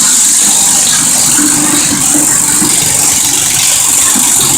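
Garden tractor engine running loud and steady, with a strong high hiss over a low engine rumble.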